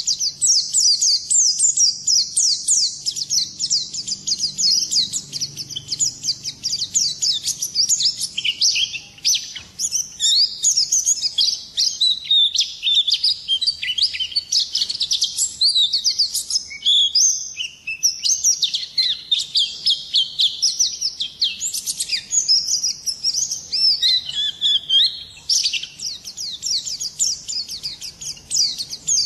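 A pleci (white-eye) singing without a break: a rapid, high-pitched stream of quick down-slurred notes, with more varied phrases in the middle.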